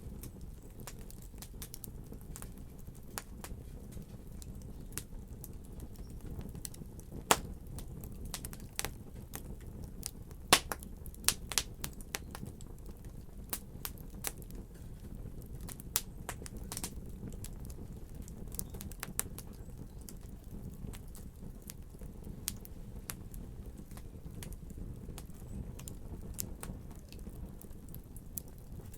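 Fireplace fire crackling: scattered sharp pops and snaps over a low steady rumble, with the loudest pops about seven and ten seconds in.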